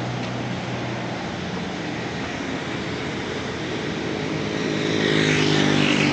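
Road traffic: a steady hum of engines and tyres, with a vehicle passing close about five seconds in, growing louder and then dropping in pitch as it goes by.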